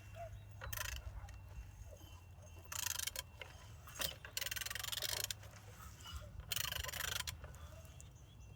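Ratchet wrench clicking in four short rapid bursts as the engine's crankshaft is turned over by hand, checking that the engine turns.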